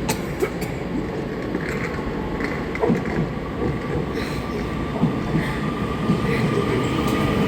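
Passenger train running, a steady rumble with scattered clicks and a faint steady whine, growing a little louder near the end.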